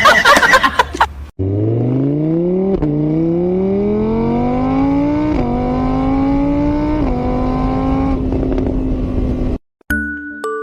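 Car engine accelerating through the gears: the pitch climbs steadily, drops back at each of three shifts and climbs again, then holds steady before cutting off abruptly. A loud, noisy burst fills the first second, and a chiming music-box-like tune starts near the end.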